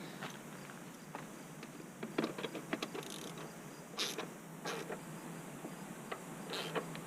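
Scattered clicks, light knocks and short scraping rustles of hand tools and metal parts being handled while the battery hold-down is fitted, over a low steady hum.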